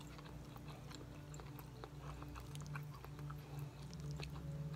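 Close-up chewing of a shrimp, onion and cabbage stir-fry: wet mouth clicks and lip smacks scattered throughout, over a low steady hum.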